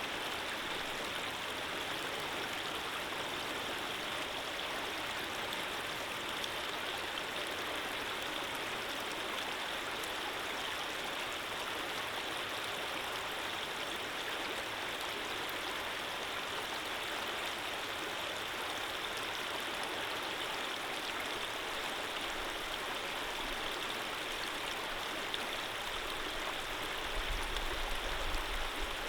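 Gentle stream of running water flowing steadily, an even rushing sound with no breaks. A low rumble joins in near the end.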